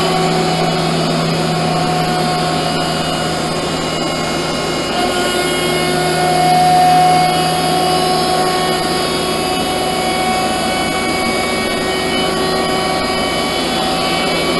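The 50 HP hydraulic power unit of a Leifeld PLB 1200 metal-spinning lathe running steadily, a constant hum and whine with a few fixed tones. It swells slightly about six to seven seconds in.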